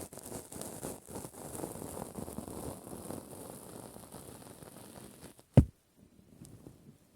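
Soft rustling and crackling close to the microphone, then a single sharp thump about five and a half seconds in, after which it goes nearly quiet.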